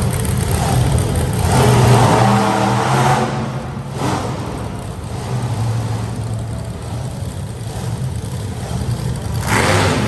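Monster truck engine running and revving, loudest about two seconds in, easing back to a lower drone, then picking up again near the end.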